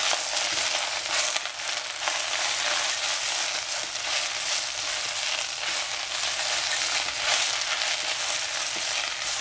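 Bok choy (Chinese cabbage) sizzling as it is stir-fried in hot oil: a steady frying hiss with brief louder rasps of stirring every second or two.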